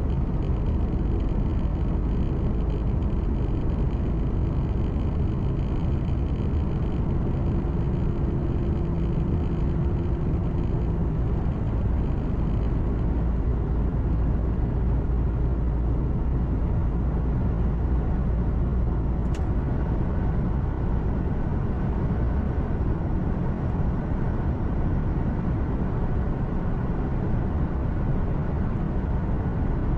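Truck cab interior at road speed: steady engine hum and road noise, deep and even.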